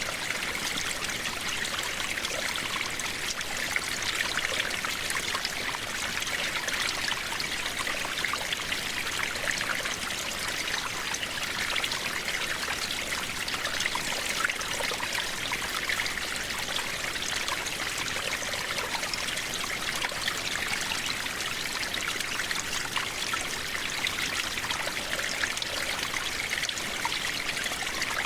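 Steady rain falling, a dense patter of drops over an even hiss.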